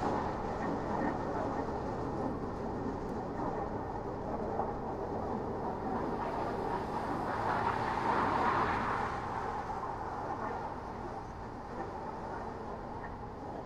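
Steady road and tyre noise of a car driving on city streets, swelling about eight seconds in and easing off after that.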